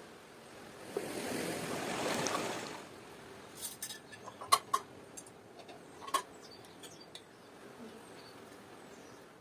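A soft rushing noise for about two seconds, then a few sharp clicks and clinks, like utensils or dishes knocking together.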